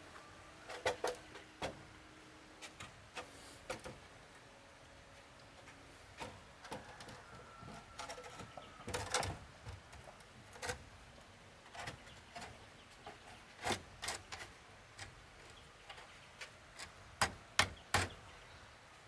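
Irregular sharp knocks and clicks, one every second or so, with the loudest few near the end.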